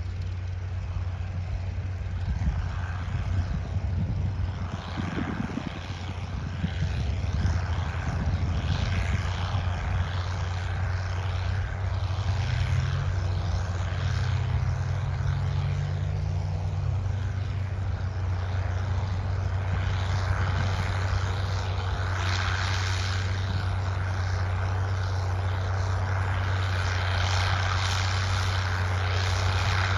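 Crawler tractor engine running with a steady low drone.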